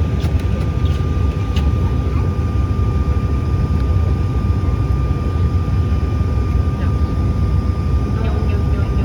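Jet engine noise inside an airliner cabin: a steady low rumble with a thin, steady whine over it.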